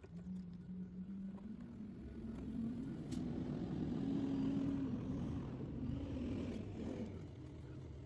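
A distant engine running, its pitch wavering slowly up and down; it swells toward the middle and then fades.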